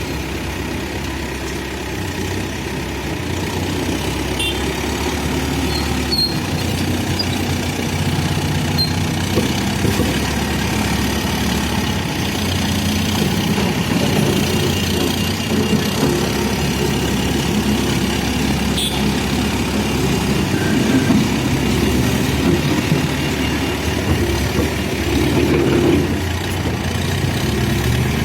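Backhoe loader's diesel engine running steadily, with a deep rumble that swells slightly at times as it works.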